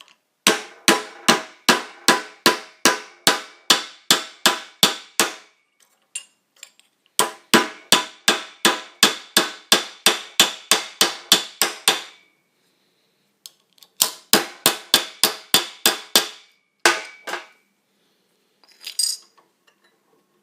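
Hammer blows flattening a brazed copper tube, in three quick runs of sharp ringing strikes at about two to three a second, the first two about a dozen strikes each. A couple of single knocks follow near the end.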